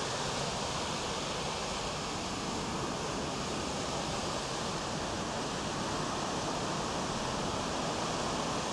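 Steady rushing noise of wind and sea around a cruise ship under way, even and unbroken, with a faint steady high tone underneath.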